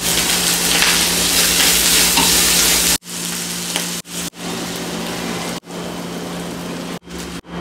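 Sliced peppers and meat sizzling in a frying pan as a wooden spatula stirs them. It is loudest for the first three seconds, then a quieter sizzle broken by several abrupt cuts.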